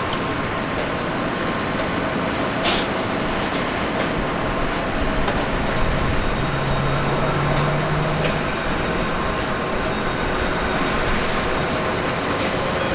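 Steady roar of airliner jet engines at an airport, with a faint high whine coming in about halfway through.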